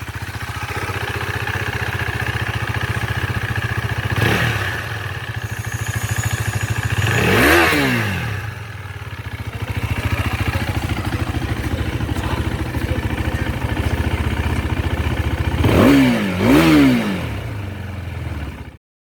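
KTM Duke 390's single-cylinder engine idling at the exhaust, blipped briefly about four seconds in, revved higher and let fall back about halfway through, and blipped twice in quick succession near the end before the sound cuts off.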